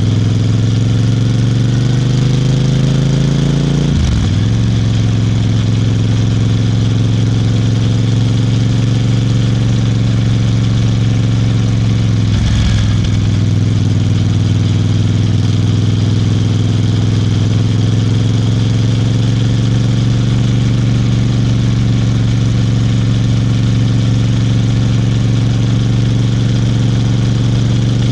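Royal Enfield Bear 650's 648 cc parallel-twin engine pulling under way, rising in pitch, then dropping sharply at two upshifts about four and twelve seconds in before running steadily with engine speed slowly climbing.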